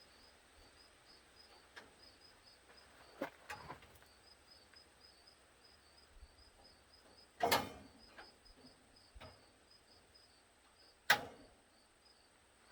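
A few sharp knocks and clunks of metal parts being handled: a pair about 3 s in, the loudest about halfway, and another near the end. Faint, evenly repeated insect chirping runs underneath.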